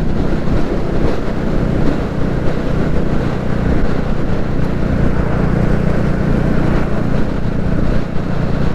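Royal Enfield Classic 350's single-cylinder engine running steadily on the move, under a rush of wind and road noise.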